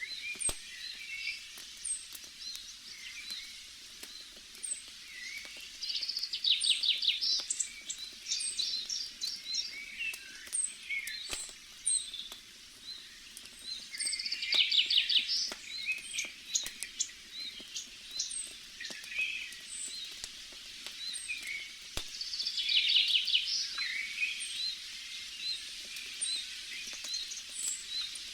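Forest birds chirping and trilling, with a fast rapid-fire trill coming back about every eight seconds. A few sharp crackles from a campfire come through now and then.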